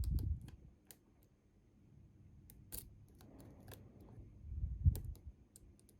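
Lock-picking tools working in a Bi-Lock cam lock: scattered small metallic clicks and ticks at irregular intervals, with low handling bumps at the start and again about five seconds in.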